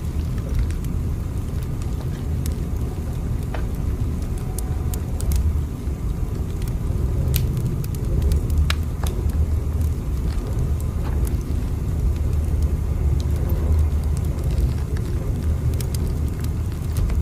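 Steady low rumble of a moving train, with scattered faint clicks and crackles over it.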